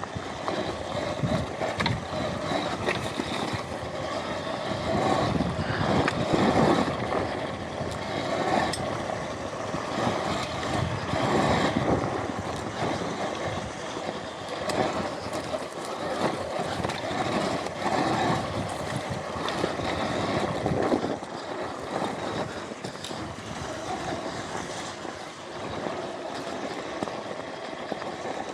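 Electric off-road motorbike being ridden on a dirt trail: rushing wind and tyre-on-dirt noise with no engine note, rising and falling in loudness as the bike speeds up and slows.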